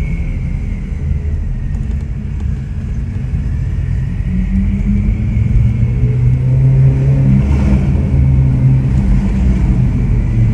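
Ferrari 488 Pista's twin-turbo V8, through a custom Ryft exhaust, running as the car drives, a steady low engine drone that grows louder from about halfway through.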